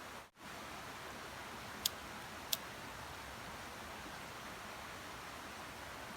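Steady hiss of rain with two sharp ticks about two seconds in, like heavy drips. The sound cuts out for a split second just after the start.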